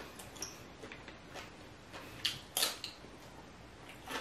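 Close-miked chewing of seafood: scattered wet mouth clicks and smacks, a few louder ones a little past halfway.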